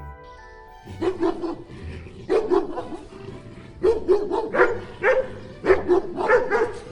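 A dog barking repeatedly, the barks coming in quick groups of two or three, over background music.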